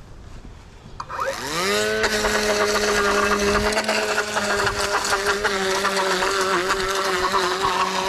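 Lawn edger throttled up about a second in: its pitch rises quickly, then it runs steadily at full speed.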